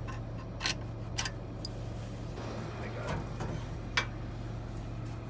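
Tractor engine idling steadily in the background, with about four short sharp metallic clicks from hand tools working on the alternator's mounting.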